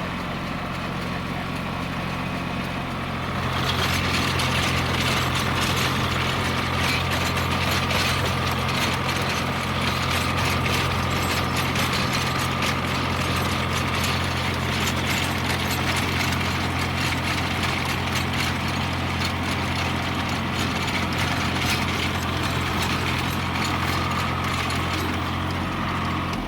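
Tractor engine running steadily while ploughing, with a dense metallic clatter of the working tractor and implement that grows louder about three and a half seconds in.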